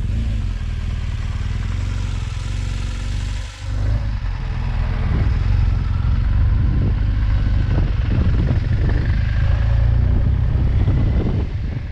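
BMW R1200GS motorcycle's flat-twin engine running steadily, with a brief drop in level about three and a half seconds in.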